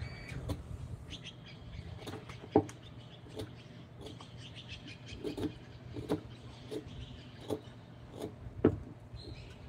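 Irregular light knocks and clicks of hand-tool work on wood, about a dozen, two of them sharper, over a steady low hum.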